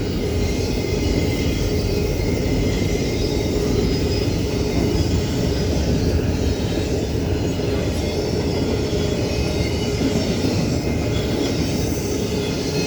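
Double-stack intermodal freight train rolling past: a steady rumble of wheels on rail, with a faint high squeal from the wheels.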